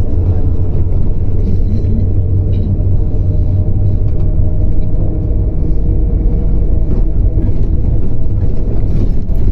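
Bus simulator's engine-and-road sound of a MAZ 105 articulated diesel city bus driving: a loud, steady low rumble with a constant hum above it.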